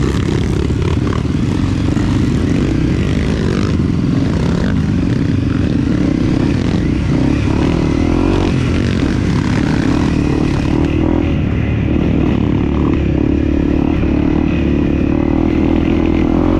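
Dirt bike engine running at fairly steady revs while being ridden, with a constant noisy rush over it.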